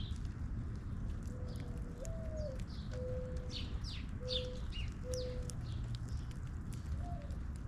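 A dove cooing: a low note rising into a higher one, followed by three drawn-out level coos, with small birds chirping briefly in the middle.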